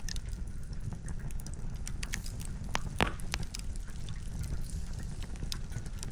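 Wood fire crackling and popping in irregular sharp cracks, the loudest about three seconds in, over a low steady rumble.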